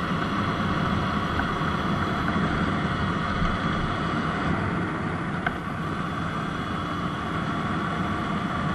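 Surron Light Bee X electric dirt bike under way: a steady mix of the electric motor's whine, tyre noise and wind rushing over the microphone.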